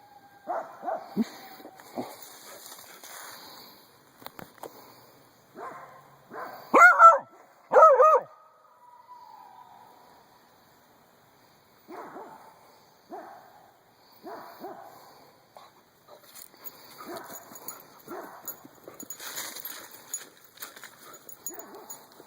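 Dogs barking and howling back and forth: short barks, with two loud wavering howl-like calls about seven and eight seconds in, then a run of quieter barks.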